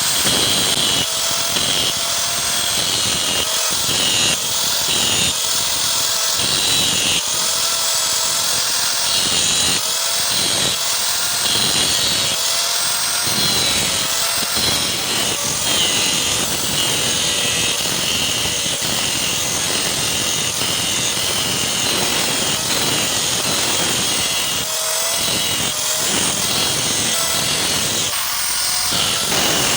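Electric grinder running continuously and grinding steel, its motor whine wavering slightly as it is pressed into the work.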